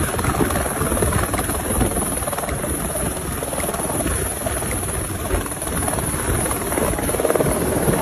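Helicopter in flight: the steady, loud noise of its engine and rotor blades.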